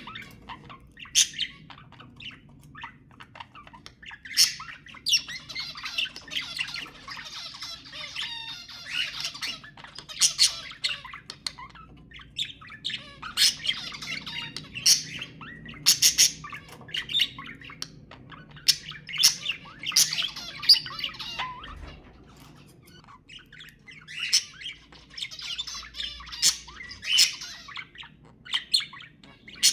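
Budgerigar chatter: stretches of fast, warbling twitter broken by many short, sharp, high squawks.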